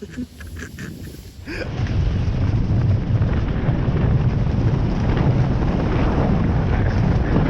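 Wind rushing over the microphone while snowboarding down a slope. It starts suddenly about a second and a half in and stays loud and steady; before that there are only a few faint knocks.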